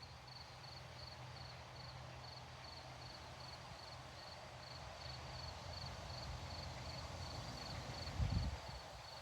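Crickets chirping steadily at about three high chirps a second over the rustle of grass in the wind. A brief low thump near the end.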